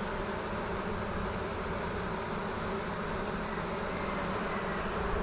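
Many honeybees from an opened hive buzzing in a steady drone.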